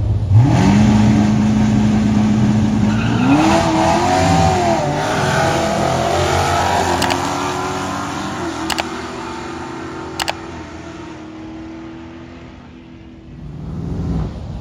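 A drag car's engine revs up and holds a steady high note for a couple of seconds, then launches, climbing in pitch through several gear changes as it pulls away and fades down the track. Three short sharp clicks come in as the engine fades.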